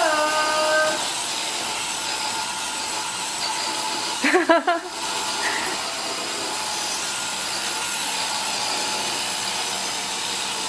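iRobot Roomba robot vacuum running, a steady whir of its motor and brushes. A short voice sound breaks in briefly about four seconds in.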